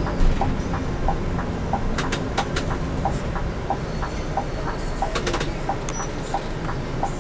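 Steady low rumble of a Scania K360i coach's engine and road noise heard from inside the moving coach, with a regular light tick about twice a second and a few sharp rattles around two and five seconds in.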